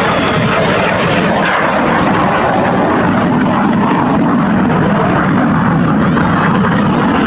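An aircraft flying at an air show, its engines making a loud, steady rushing noise.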